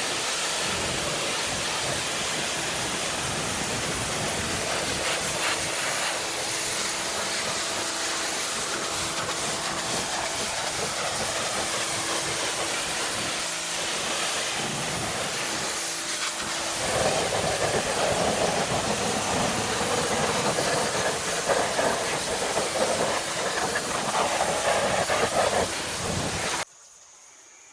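Pressure washer water spray hitting a car wheel and tire: a steady hiss that gets louder and rougher about two-thirds of the way through, then cuts off abruptly near the end.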